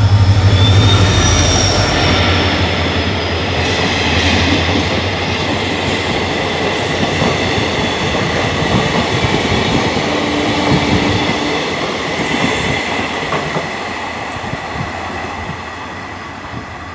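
WDP4D diesel locomotive passing close with its engine running deep and loud, followed by its four or five coaches rolling by with clacking wheels and a steady high wheel squeal. The sound fades in the last few seconds as the train pulls away.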